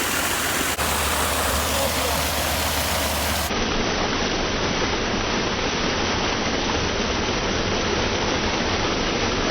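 Steady rush of water, an even noise with no breaks or distinct splashes.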